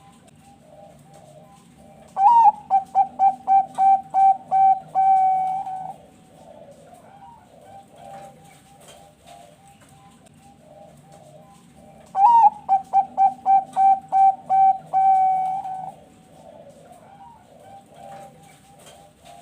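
Zebra dove (Thai-bred perkutut bangkok) singing twice, about ten seconds apart. Each song opens with a rising note, runs into about nine quick short coos and ends on a longer held coo. Fainter cooing goes on between the songs.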